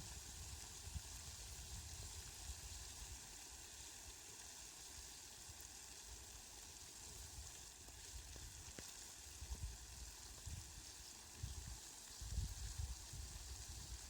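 Faint, steady hiss of falling rain, with a few brief low rumbles in the second half.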